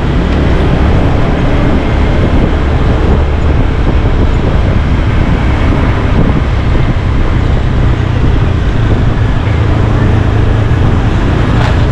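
Steady riding noise from a moving motorbike: wind rushing over the microphone mixed with the scooter's engine and surrounding road traffic, with a low engine hum becoming more prominent in the last few seconds.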